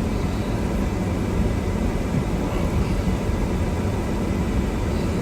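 Steady low rumble and rushing noise of a car driving slowly through snow in strong wind.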